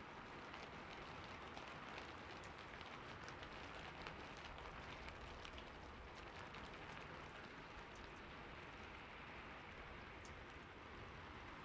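Steady rain falling on a roof: an even hiss dotted with many small ticks of single drops.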